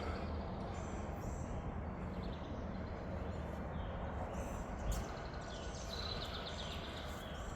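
Birds chirping a few times over steady low background noise, with a short quick trill about six seconds in.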